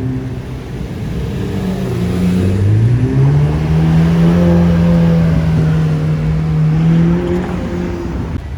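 Car engine accelerating: its pitch climbs about three seconds in, holds steady and loud for about four seconds, then falls away near the end.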